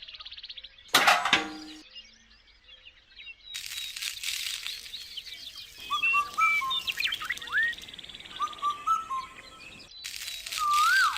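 Birds chirping, many short whistled calls rising and falling over a soft background hiss, with one louder rise-and-fall call near the end. About a second in, a single sharp crack with a brief ringing.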